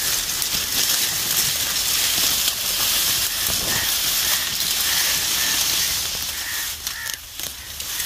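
A steady high hiss, with a bird giving short, repeated calls from about two seconds in until near the end.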